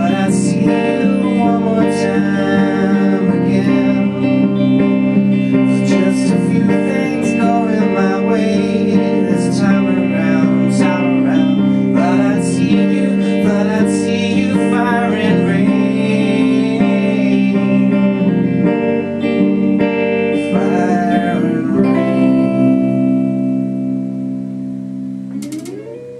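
Acoustic guitar playing the closing bars of the song. About 22 seconds in it settles on a final chord that is left ringing and fades away before cutting off at the very end.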